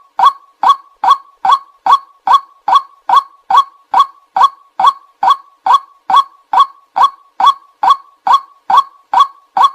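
White-breasted waterhen call: a monotonous series of short, identical 'kwak' notes, about two and a half a second, evenly repeated. It is a recorded lure call meant to draw in waterhens.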